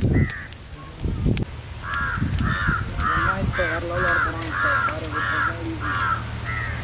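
A bird calling over and over in short calls, about two a second, starting about two seconds in and running on, with a lower wavering sound under it in the middle.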